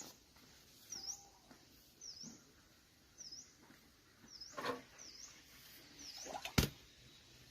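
A bird repeating a short, high chirp about once a second, with a few fainter calls between. A single sharp click near the end is the loudest sound.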